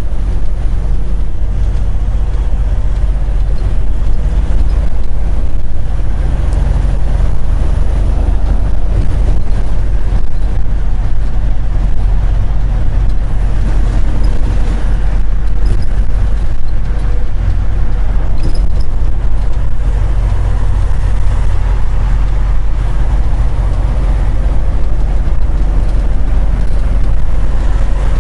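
Semi truck's diesel engine running, heard from inside the cab as a loud, steady low rumble. Its pitch shifts a little now and then.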